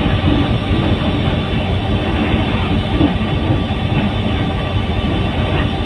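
Train running through a station, heard from aboard: a steady, continuous rumble.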